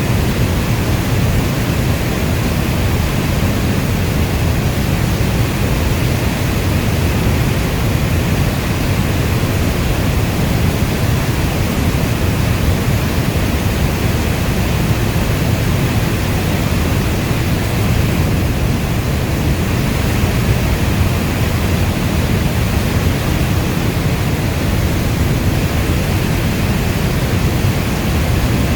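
Steady heavy rain: a dense, even rush of noise weighted toward the low end, with no individual drops or thunder standing out.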